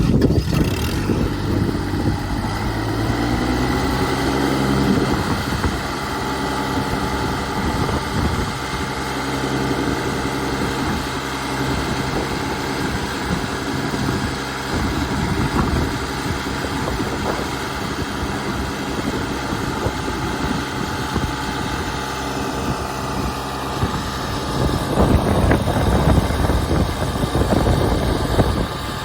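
Ford 1220 compact tractor's three-cylinder diesel engine running. Its pitch shifts in the first few seconds and then holds steady, with a louder stretch near the end.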